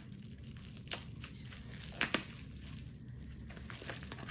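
A domestic cat purring loudly and steadily, with packaging crinkling and two sharp clicks about two seconds in.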